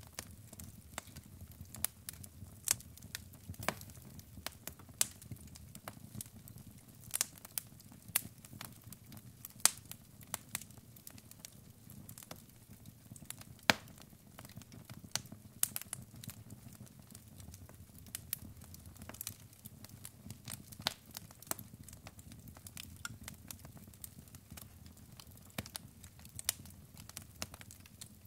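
Wood logs burning in a fireplace, crackling with irregular sharp pops of varying strength, several a second, over a low steady background.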